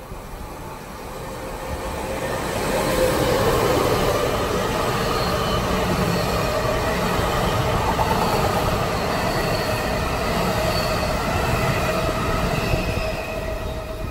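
NJ Transit electric commuter train of bi-level coaches passing at speed on the near track. Its rumble swells over the first few seconds as the train arrives, holds while the cars go by with thin high tones from the wheels over it, and fades near the end as the last car passes.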